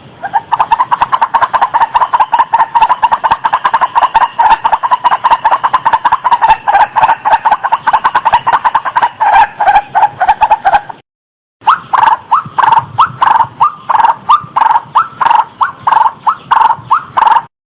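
White-breasted waterhen calling, a rapid run of loud, harsh notes repeated several times a second. The calling breaks off briefly about eleven seconds in, then resumes.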